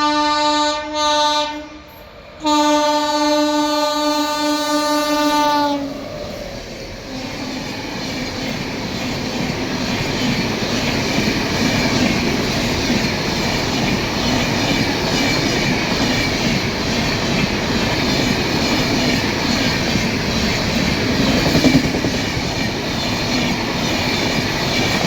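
Indian Railways express train horn sounding twice, the second blast about three seconds long. The train then runs through the station at speed without stopping, a steady loud rush of passing coaches with wheels clattering on the rails.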